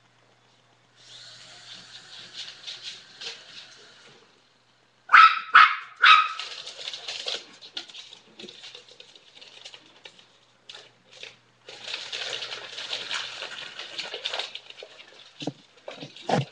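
Dogs barking at a small remote-control toy helicopter: the helicopter's electric motor and rotor whir, then three loud sharp barks about five seconds in. The whirring comes back later, with more, deeper barks near the end.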